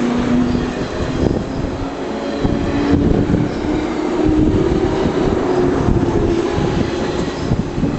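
JR 185 series electric train pulling out of the station, its traction motors humming and climbing slowly in pitch as it picks up speed, over the rumble of the wheels on the track.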